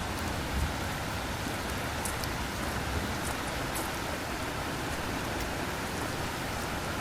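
Steady rushing of a fast-flowing mountain stream, with a few faint high ticks over it.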